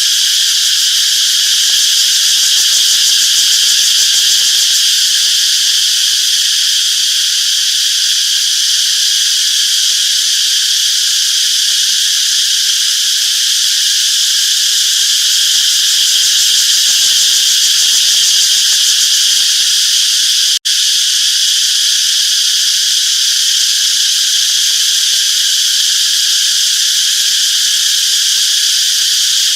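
A chorus of cicadas buzzing in a steady, dense, high-pitched drone, with one split-second dropout about two-thirds of the way through.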